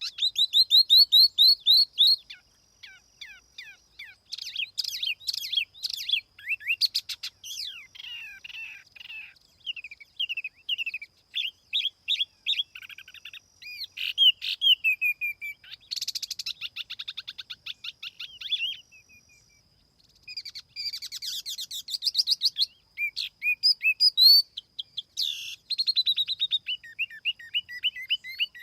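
Tiểu mi songbird singing a lure song: fast runs of high chirps, trills and short whistled slides, with a brief pause about two-thirds of the way through.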